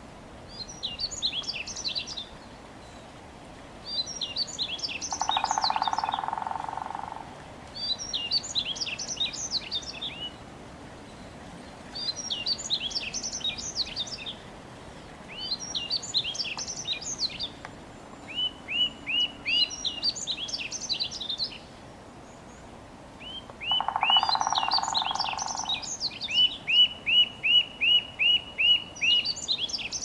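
Songbirds singing: phrases of about two seconds of rapid high chirps repeat every few seconds, with runs of quick falling notes, about four a second, in the middle and near the end. A lower buzzy call sounds twice, over a steady background hiss.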